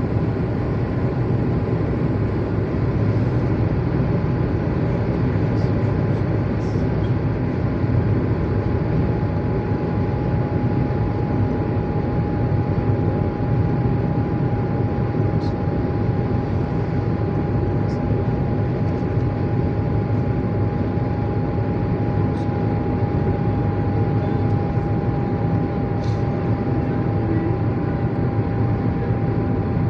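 Steady low rumble of a running vehicle, with a constant whine held over it and a few faint ticks.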